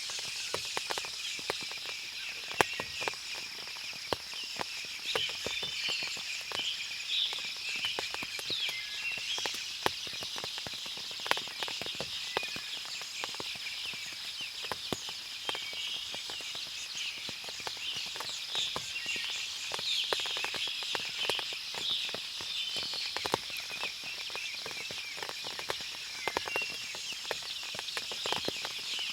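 Forest after rain: water dripping from the trees in irregular sharp drops, birds chirping in short calls, and a steady high hum of insects underneath.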